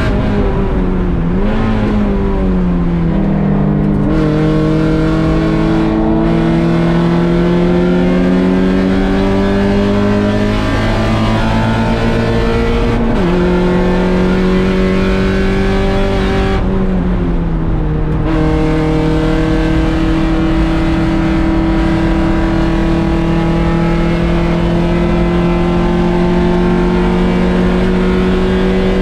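Race-prepared 1.6-litre Mazda Miata four-cylinder engine pulling hard, its pitch climbing steadily between gear changes. There is a sharp drop in revs for an upshift a little before halfway, and later the revs fall away briefly before climbing slowly again.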